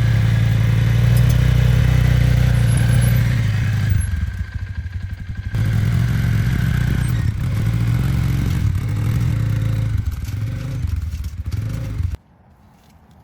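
Off-road vehicle engine running steadily, easing off briefly about four seconds in, then cutting off abruptly about twelve seconds in.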